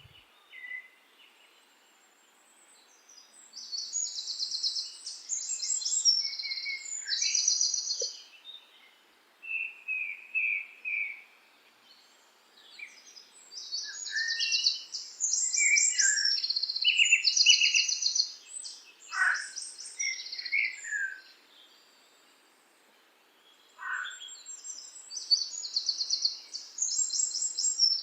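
Songbirds singing: bouts of high, rapid trilled phrases with softer lower chirps between them and a couple of quick falling calls, broken by short quiet gaps.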